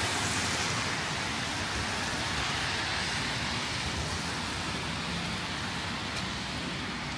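Steady hiss of a wet city street in the rain: falling rain mixed with car tyres on the wet road.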